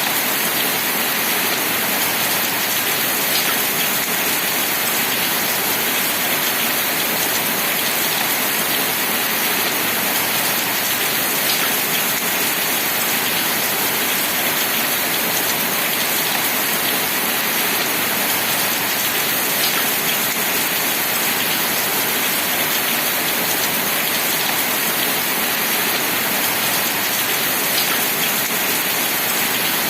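Steady rain falling, an even hiss that doesn't change, with a faint tick about every eight seconds.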